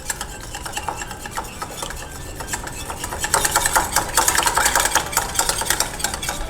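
Egg being whisked into a cornflour-and-water batter in a bowl, a utensil making rapid clicking strokes against the bowl. The strokes get busier and louder about three seconds in.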